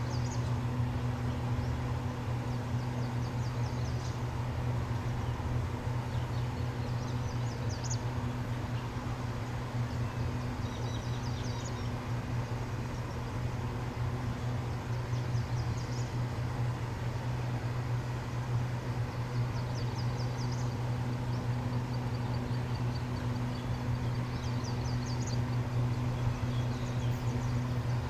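Train's diesel engine running steadily at idle, a constant low hum. Short high chirps come in every few seconds.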